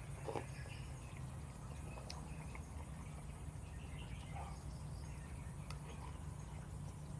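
Outdoor nature ambience: scattered short bird or insect chirps over a steady low rumble.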